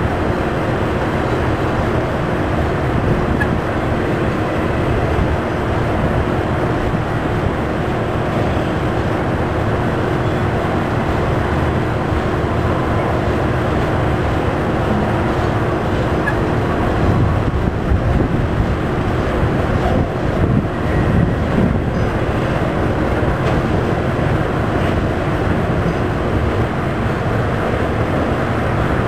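Intermodal freight train's trailer-on-flatcar cars rolling past: a steady, loud noise of steel wheels on the rails.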